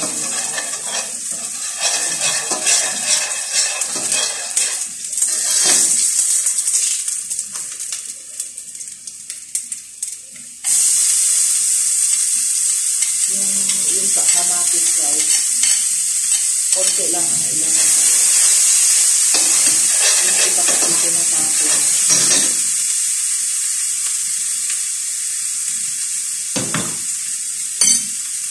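Hot oil sizzling in a steel frying pan, with a metal spatula scraping and stirring. About eleven seconds in, the sizzle jumps suddenly louder and stays steady as chopped onions go into the oil, with more scraping stirs over it and a sharp knock near the end.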